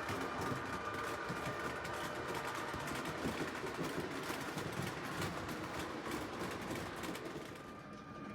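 H0-scale model train running on the track: a small electric motor whirring with a dense clatter of wheels over rail joints. A thin steady whine fades out near the end.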